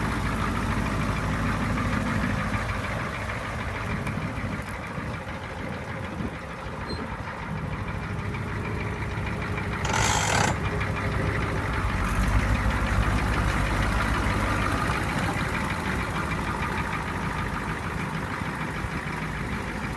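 1991 International 4600LP truck's engine running steadily at idle, with a brief hiss about halfway through. The engine is a little louder for a few seconds after the hiss.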